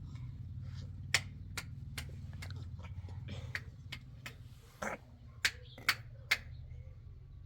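Irregular sharp clicks and taps, about a dozen spread unevenly, over a steady low hum.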